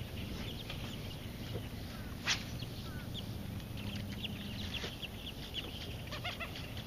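Birds chirping and calling in short notes, with one sharp click about two seconds in and a short louder call near the end, over a steady low rumble.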